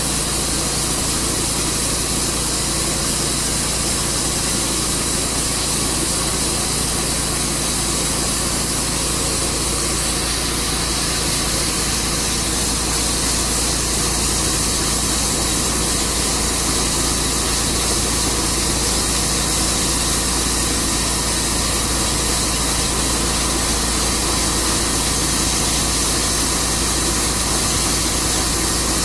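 Portable sawmill running steadily: an engine holding one constant note under a dense, even hiss, with no break or change in pitch.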